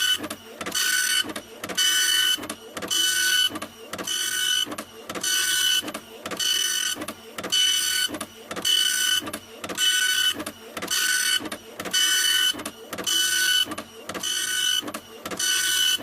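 Printer running continuously, repeating the same mechanical pass about once a second: a whirring with a steady high whine in each pass and short dips between them.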